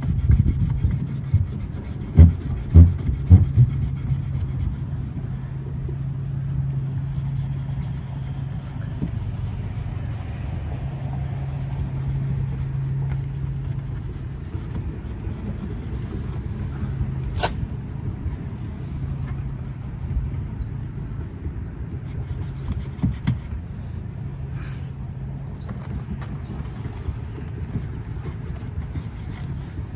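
Rag rubbing chrome polish over a chrome exhaust tip by hand, faint under a steady low hum, with a few loud knocks about two to three seconds in and a single sharp click about halfway through.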